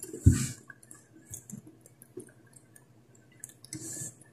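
Close-up mouth sounds of someone chewing and swallowing food: small wet clicks and smacks, with a soft thump about a quarter second in.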